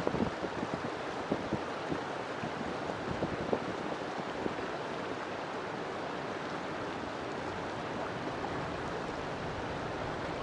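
River water flowing: a steady rushing sound with small splashes and gurgles scattered through it.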